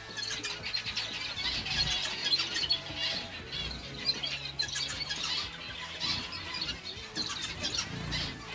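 A flock of small cage birds chirping and squeaking continuously, many rapid overlapping calls, with occasional wing flutters and a faint steady low hum or music beneath.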